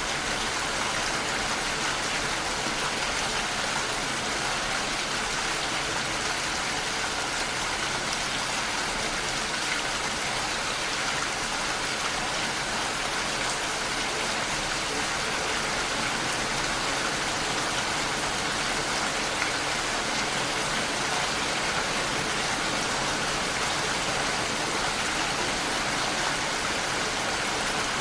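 Steady rain falling against a window: an even, unbroken hiss with a few faint separate drop ticks.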